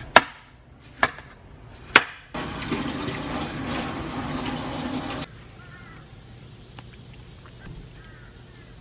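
Three sharp knocks about a second apart, then water running for about three seconds that cuts off suddenly. Faint chirps and a thin steady high tone follow.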